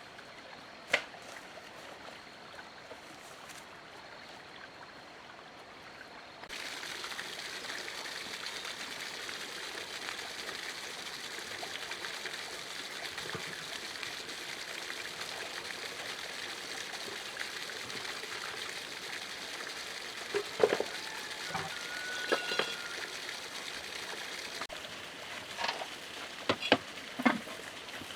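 Water running or trickling steadily, starting suddenly about six seconds in, with a few sharp knocks and clicks near the end.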